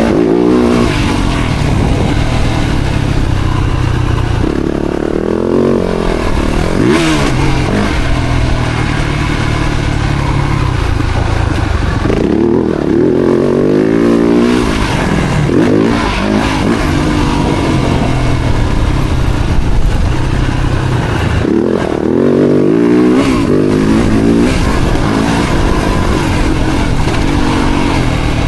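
Four-stroke single-cylinder Yamaha YZ motocross bike engine revving hard and backing off again and again as it is ridden round the track, the pitch climbing and dropping every few seconds.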